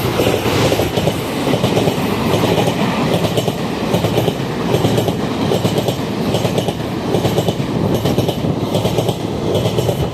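Tze-Chiang express train running through the station, its cars rolling past with a loud, steady rumble and a dense clatter of wheels over the rail joints.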